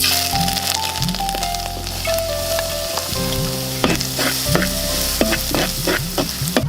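Food sizzling and frying in a hot pan, with a utensil stirring it and knocking against the pan in quick irregular clicks. The sizzle starts abruptly at the start.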